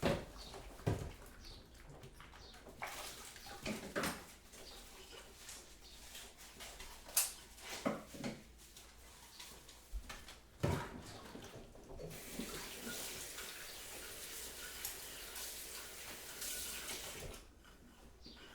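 Scattered light knocks and clinks of kitchen handling, then a kitchen tap running steadily for about five seconds before it is turned off.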